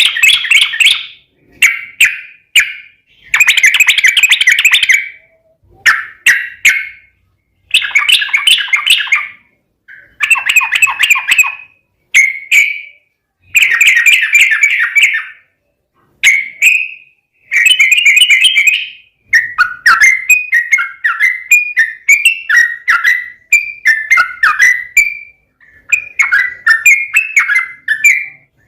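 Yellow-vented bulbul (trucukan) singing its loud, bubbly fighting song in bursts of a second or two, with short pauses between them. In the last third the bursts run almost together into a fast chatter.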